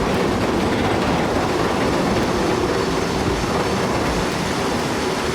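A heavy vehicle running in motion, a steady unbroken noise with a faint low hum.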